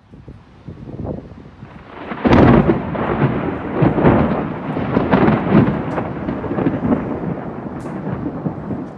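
Close thunder: a low rumble builds for about two seconds, then a sudden loud crack and a long rolling rumble that slowly eases off.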